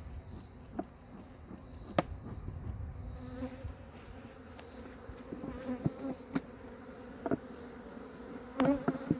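Honeybees buzzing around exposed honey, robbers drawn to it, with a steady drone that grows stronger and one bee buzzing loudly close by near the end. A few sharp clicks or knocks are heard, the loudest about two seconds in.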